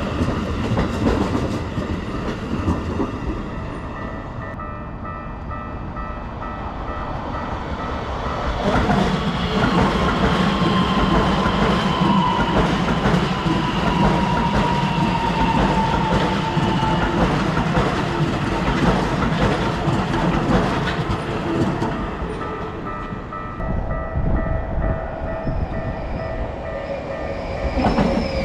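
Keikyu Line trains running over the Kita-Shinagawa level crossing, with steady wheel-on-rail clatter and rumble, loudest through the middle, where a slowly falling whine rides on top. A level-crossing warning bell rings in an even pulse near the start and again near the end.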